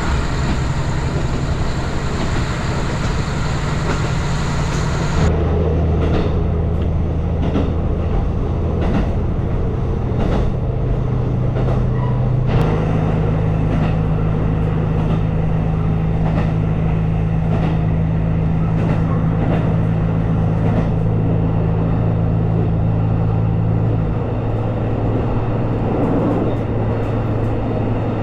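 Diesel train running, heard from on board: a steady engine hum over rumbling wheels, its pitch shifting in steps a few times.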